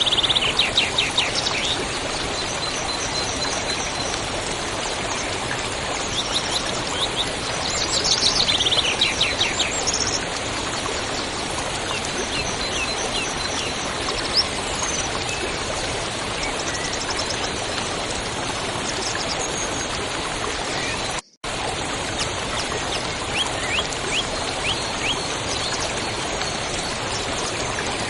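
Steady rush of running water with songbirds singing over it in quick trills and chirps, loudest near the start and about eight to ten seconds in. The sound cuts out for a moment about twenty-one seconds in.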